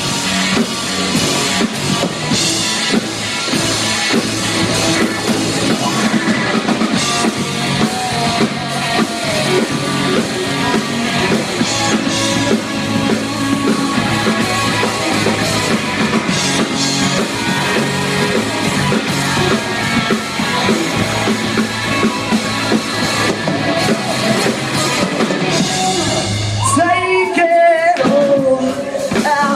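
Live rock band playing a song: drum kit, bass and guitars with singing. Near the end the drums and bass drop out for about a second before coming back in.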